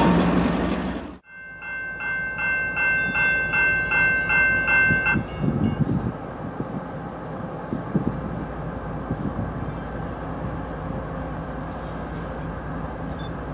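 Train noise cuts out about a second in. Then a bell rings in even strokes, about two a second, for some four seconds and stops. Under it and after it runs the steady low rumble of an approaching Norfolk Southern freight's diesel locomotives, led by a GE ES40DC.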